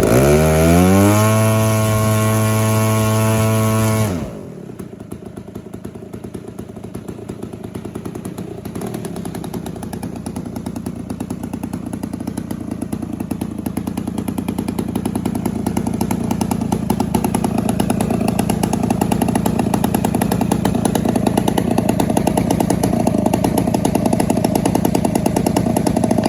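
Zenoah G62 single-cylinder two-stroke gas engine of a giant-scale P-47 model airplane running. It revs up sharply in the first second or so and holds at high throttle. About four seconds in it drops back to a lower speed, then runs on steadily, slowly growing louder.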